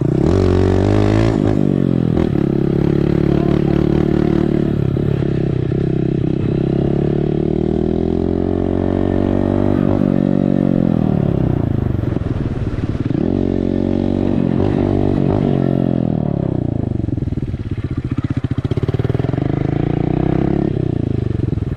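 Dirt bike engine being ridden hard. Its pitch rises and falls again and again as the throttle is opened and closed, with several deep drops and climbs in the second half.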